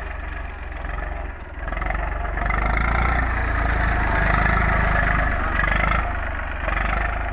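Eicher 380 tractor's diesel engine running steadily, growing louder for a few seconds in the middle before easing back.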